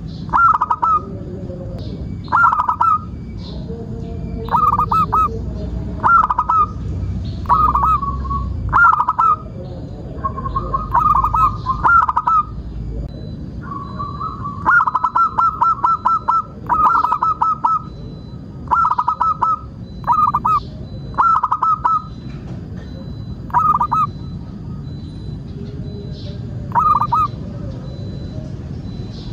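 Zebra dove (perkutut) cooing: short phrases of rapid staccato notes repeated every second or two, with a few longer rolling phrases near the middle.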